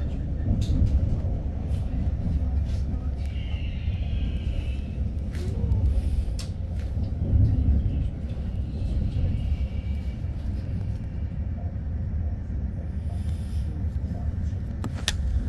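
Train running with a steady low rumble, with scattered clicks and two brief high squeals, about four and ten seconds in.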